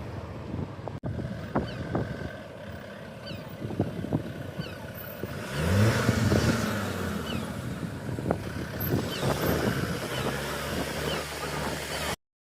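A car engine revving, its pitch rising then falling about six seconds in, over a rough wind-like noise. A steady engine note follows, and the sound cuts off suddenly near the end.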